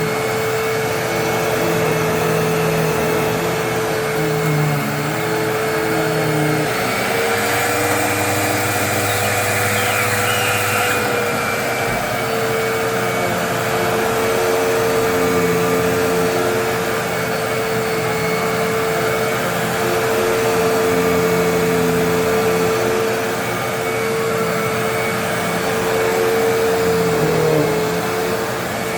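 Hoover WindTunnel Twin Chamber bagless upright vacuum running steadily while cleaning up a test mess. Its motor hum rises slightly in pitch with extra hiss for a few seconds near the start, then settles back.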